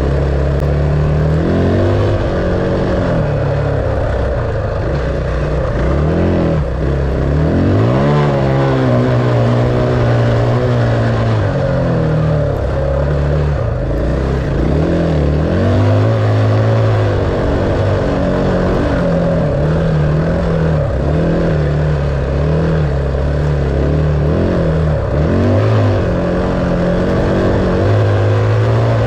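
Dirt bike engine running hard while being ridden, its pitch rising and falling with repeated throttle changes and gear shifts.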